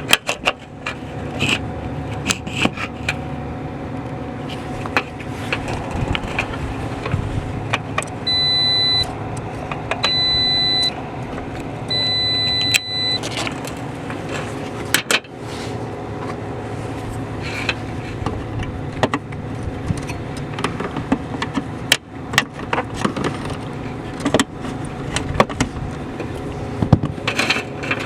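A multimeter's continuity beeper sounds three times, each a steady high beep of about a second, as the big fuses test good. Beneath it a steady machinery hum runs, with scattered clicks and knocks from the probes and handling.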